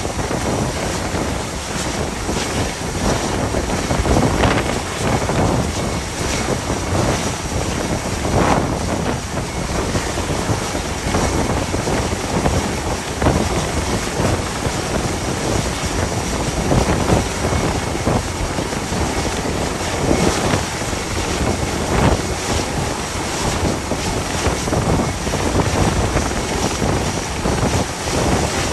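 Gale-force wind gusting hard across the microphone in irregular surges, over a steady rush of wind and sea.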